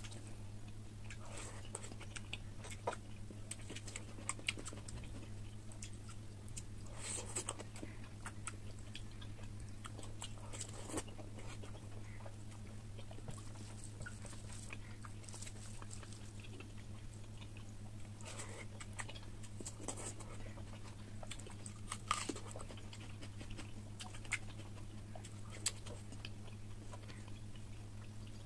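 Close-up chewing and wet mouth smacks of someone eating oily mutton fat curry with rice, in scattered irregular clicks. A steady low hum runs underneath.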